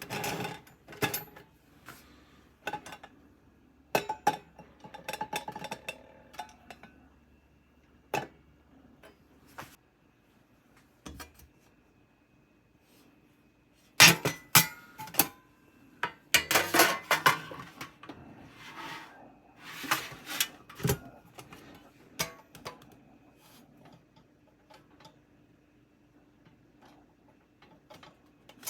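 Metal camp gear or cookware clinking and clattering as it is handled, in irregular bursts, loudest about halfway through.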